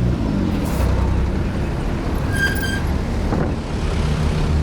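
Road traffic: vehicle engines running close by, with a short high-pitched squeal or horn note about two and a half seconds in.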